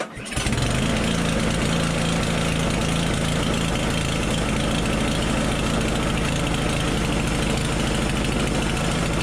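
Gas snowblower engine starts abruptly and runs steadily at an even, loud level.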